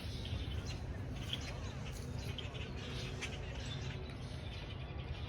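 Small birds chirping and tweeting in short, scattered calls over a steady low rumble.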